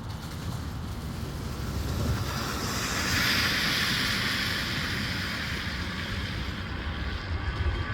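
Aircraft passing the airfield: a rushing engine noise swells to a peak about three to four seconds in and then eases off, over a steady low rumble.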